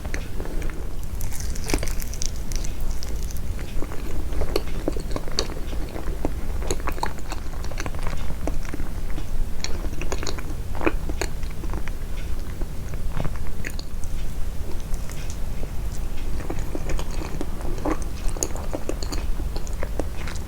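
Close-miked chewing of a soft red-bean sweet: many small wet smacks and clicks at an irregular pace, over a steady low rumble.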